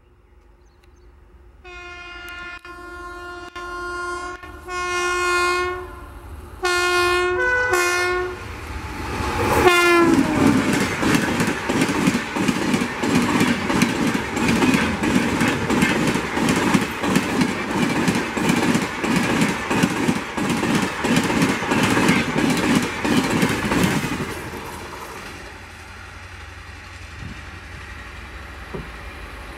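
Electric locomotive's horn sounded in a series of blasts as the express train approaches, its pitch dropping as it passes. Then the coaches run past at speed with a loud, rapid clickety-clack of wheels over the rail joints, which fades off sharply near the end as the train recedes.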